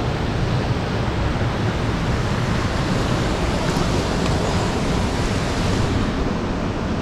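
Steady rushing roar of water from a waterfall.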